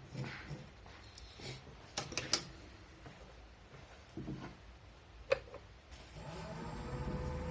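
A few sharp knocks and clicks, a quick cluster about two seconds in and one more just past five seconds. About six seconds in, the electric motor of a woodturning lathe starts up and runs with a steady hum and a held whine.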